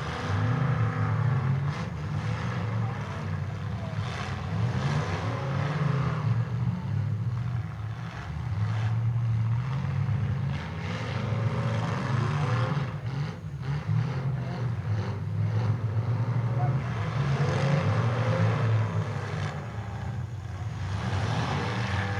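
Demolition derby cars' engines revving and running hard together, pitch rising and falling as the cars push and back up, with a few knocks of metal hitting metal about two thirds of the way through.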